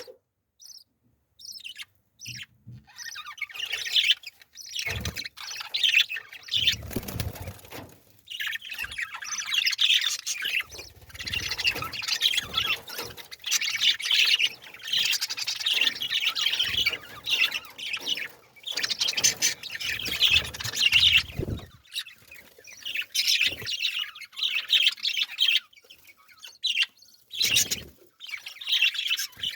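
Small birds chirping and twittering in quick, overlapping bursts, with a few low thumps in between.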